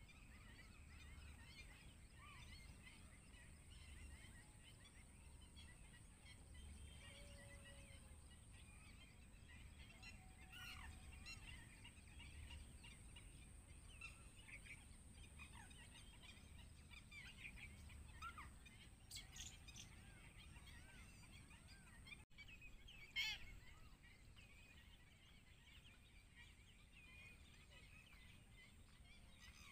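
Faint, scattered bird chirps and calls over a low steady background rumble, with a brief, louder sharp sound about three-quarters of the way through.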